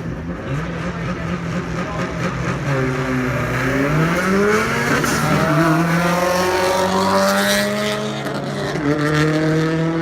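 Drag car engine accelerating hard through the gears: its pitch climbs, drops at a gear change about five seconds in and again near the end, and climbs again after each shift.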